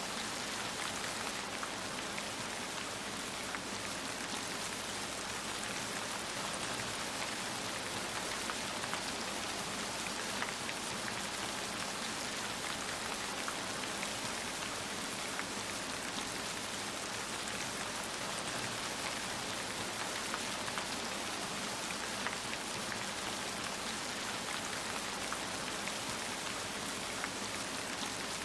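Heavy rain falling steadily, a dense hiss of drops with many small individual drop ticks.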